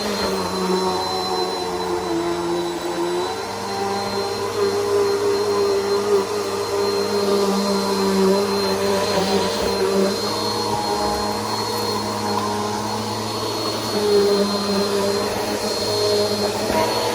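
Bissell PowerForce Helix upright vacuum cleaner running steadily, its motor giving a constant hum with a high whine on top, the pitch shifting slightly now and then as it works.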